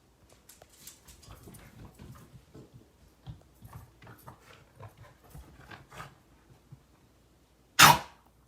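Puppy hacking while playing: several seconds of soft, irregular gagging noises with small clicks, then one short, loud hack near the end.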